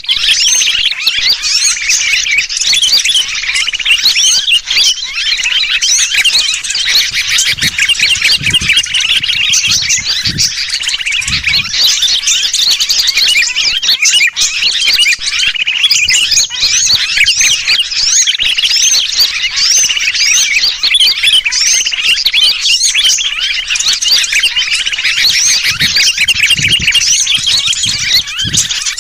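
Bird-lure recording: a dense, unbroken chatter of many small birds mixed with the distress calls of a sooty-headed bulbul (kutilang) caught or held, played to draw wild birds in.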